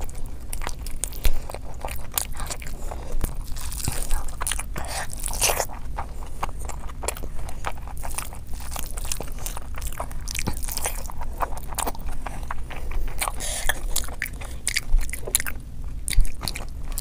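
Close-miked chewing and biting of chicken and fried rice eaten by hand: a dense, irregular run of wet mouth clicks and smacks.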